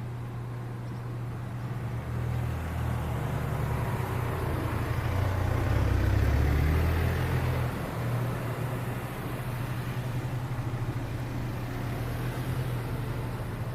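A motor vehicle passing, its engine and road noise over a steady low hum, growing louder to a peak about halfway through and then fading.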